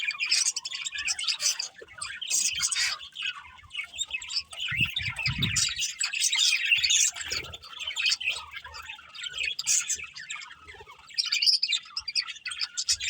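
Several budgerigars chirping in a continuous, rapid stream of short, high calls.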